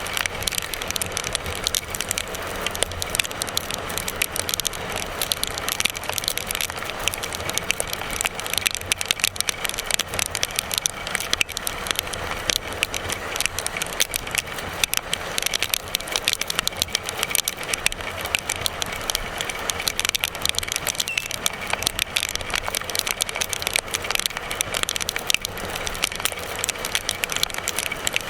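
Motorcycle ride heard through the rider's microphone: a steady rush of wind and road noise with constant fine crackling.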